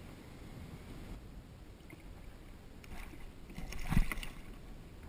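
Water sloshing against a kayak, then a burst of splashing with a thump about four seconds in.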